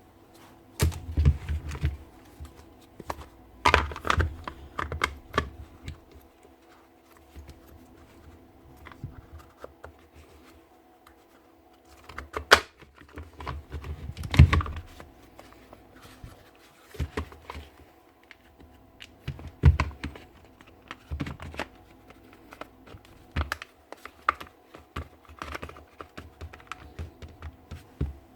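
Irregular clicks, taps and knocks of tools and small parts being handled, with a faint steady hum behind them.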